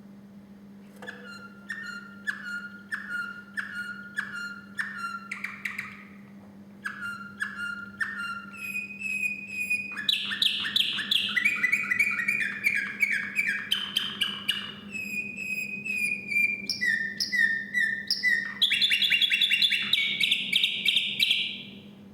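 Contest song canary singing: series of repeated notes, slow at first at about two a second, then after a short pause faster rolling trills that step up in pitch, loudest near the end, where the song stops abruptly. A faint steady hum lies underneath.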